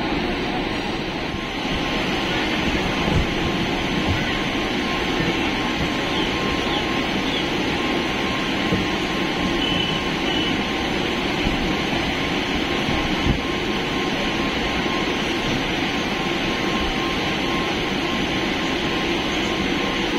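Steady running noise of an EMU local train in motion, heard from on board: an even rumble of wheels on rail with a hiss above it, holding at a constant level.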